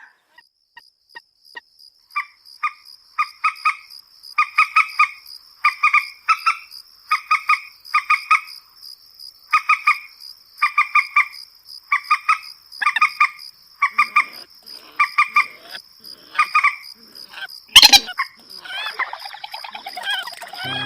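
Moorhen-type waterbird call played as a trapping lure: short clucking notes in pairs and triplets, about one group a second, starting as faint ticks and growing loud. A steady high-pitched tone runs underneath. A loud sharp click comes a few seconds before the end, followed by a dense jumble of chattering calls.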